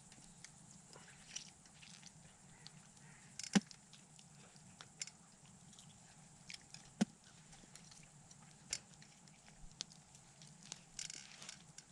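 Small scattered clicks, taps and scrapes of a knife working on fish, with two sharper knocks about three and a half and seven seconds in.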